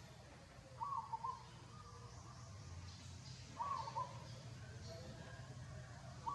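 An animal's short call, repeated three times about three seconds apart; each call is a quick two- or three-part phrase.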